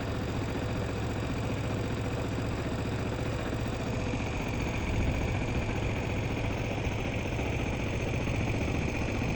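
A motor engine running steadily. About four seconds in, a higher steady whine joins it.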